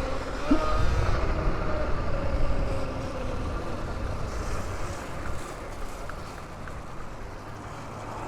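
A motor vehicle going by, its low rumble and faint whine loudest over the first three seconds and then fading away.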